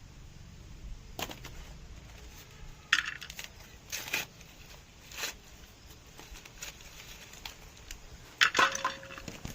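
Maize being picked by hand: a few separate sharp snaps and crackles as ears are broken off dry stalks among rustling dry leaves. The loudest cluster of snaps comes near the end.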